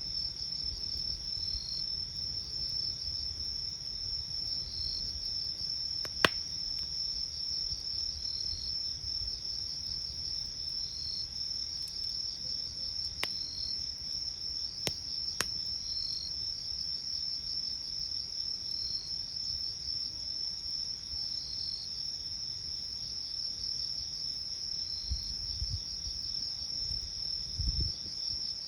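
Crickets trilling steadily, with a second insect chirping about once every two seconds. A few sharp pops from the crackling campfire cut through, the loudest about six seconds in, over a low rumble.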